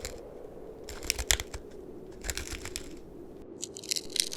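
Crunchy chewing sound effects: a few separate crisp crunches, then a quicker run of them near the end.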